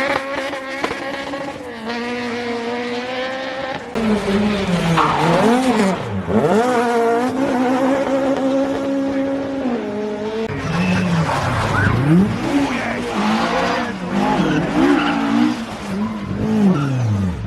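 Rally car engine revving hard, its pitch swinging rapidly up and down as the car is thrown through tight turns, with tyres squealing and skidding. The sound changes abruptly twice, about four seconds in and again about halfway through.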